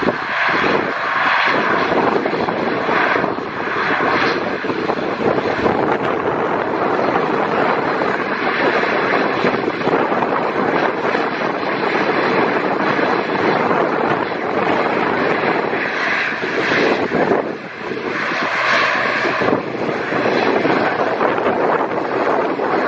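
ATR 72-500 twin Pratt & Whitney PW127 turboprop engines running with a loud, steady propeller-and-engine noise that swells and eases a few times.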